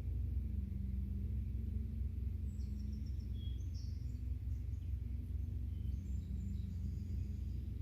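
Outdoor ambience: a steady low rumble with a faint hum, and birds chirping briefly and high about two to four seconds in and again near the end.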